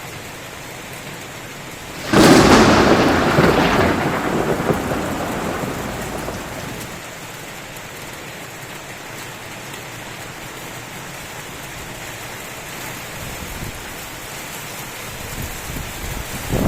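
Thunderstorm: steady downpour hissing, with a sudden loud thunderclap about two seconds in whose rumble dies away over about five seconds. Another rumble of thunder starts near the end.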